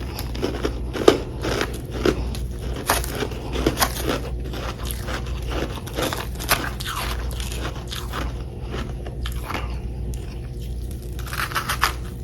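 Close-miked biting and chewing of chunks of humidifier-made freezer frost: irregular crisp crunches, sparser for a few seconds before a quick cluster near the end.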